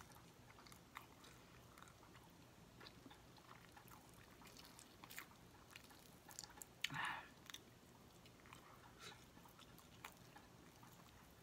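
Faint close-miked chewing of rotisserie chicken, with scattered small wet mouth clicks, while fingers pull the chicken breast meat apart. A brief louder sound comes about seven seconds in.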